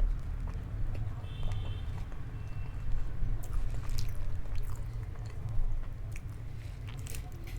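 Close-miked chewing and biting of pizza and fries, with scattered sharp crunches and mouth clicks over a steady low hum.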